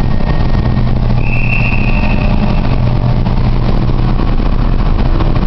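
Engine running steadily with a low, even drone, and a brief high-pitched tone sounding for about a second and a half near the middle.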